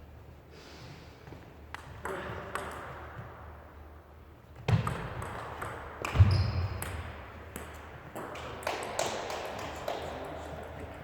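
Table tennis ball clicking off bats and table: scattered knocks, then a quicker run of hits from about eight seconds in. Two heavier thumps stand out around the middle.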